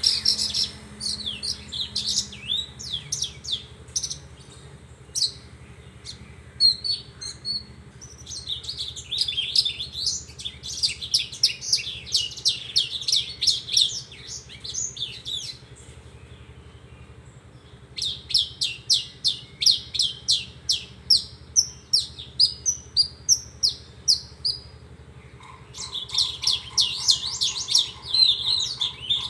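Javan bushlark (branjangan) singing: long phrases of rapid, high chirps and trills, broken by pauses of a second or two.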